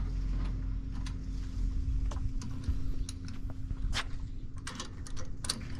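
Scattered light clicks and taps, irregular and a few at a time, over a steady low hum.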